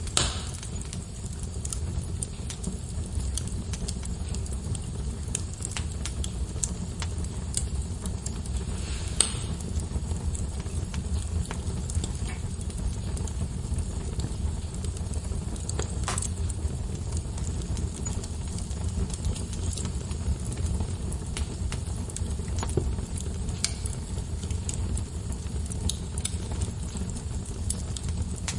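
Wood fire burning in a fireplace: logs crackling with scattered small snaps over a steady low rumble, with a sharp pop right at the start and louder snaps about 9 and 16 seconds in.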